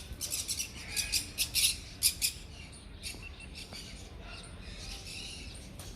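Many birds chirping, a quick run of high, short chirps in the first two seconds or so, then fewer and fainter calls.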